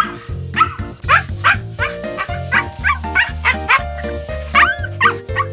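Shiba inu barking in a string of a dozen or so short, high yips over background music with a steady beat.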